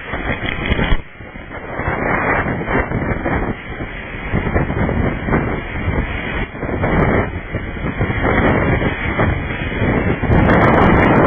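Hurricane wind buffeting the microphone in heavy, uneven gusts. It drops away briefly about a second in and is loudest near the end.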